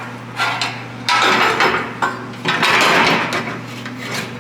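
Bumper frame being set back onto the car: a string of knocks and scraping, metal-on-metal clatter, with two longer scrapes in the middle.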